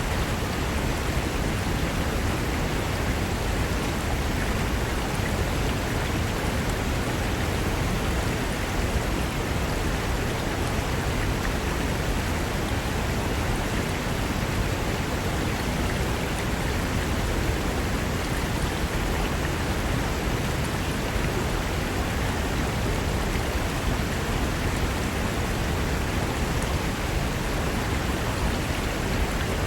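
Fast mountain river rushing over rocks: a steady, dense wash of water noise with no let-up.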